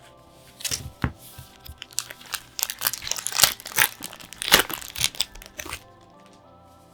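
Plastic or foil trading-card packaging being crinkled and torn open by hand in a rapid, irregular run of crackles, stopping about six seconds in.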